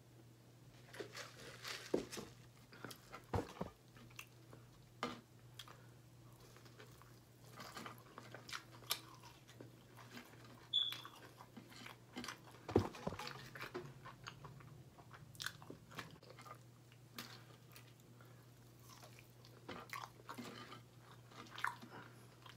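Close-miked chewing and biting of crispy fried chicken tenders, with scattered crunches and mouth sounds. A faint steady low hum runs underneath.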